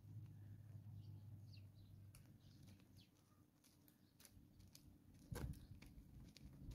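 Near silence: faint outdoor ambience with a few faint bird chirps and a low hum, and a single soft thump about five and a half seconds in.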